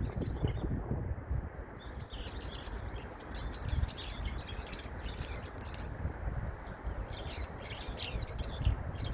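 Small songbirds chirping busily: many short, high chirps coming quickly one after another, over a steady low background rumble.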